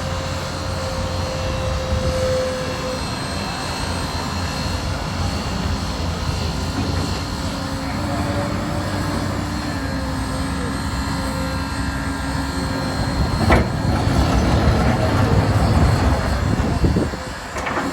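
Train running by: a steady heavy rumble with a low engine drone that grows louder near the end, then drops off sharply.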